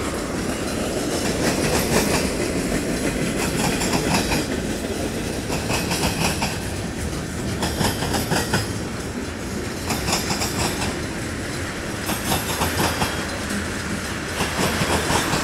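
Freight train cars, mostly tank cars, rolling through a grade crossing. A steady rumble of steel wheels on rail is broken every second or two by groups of clickety-clack as the wheelsets pass over rail joints.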